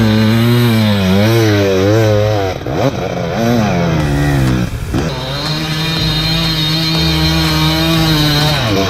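Off-road enduro motorcycle engine being worked hard in loose sand, revving up and down with quick rises and drops in pitch, then held at a steady high rev for several seconds before falling off near the end.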